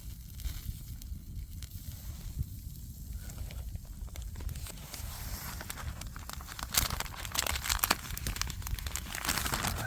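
Plastic food packaging crinkling and tearing as a steak is unwrapped, the crinkles growing thicker from about halfway through, over a low steady rumble.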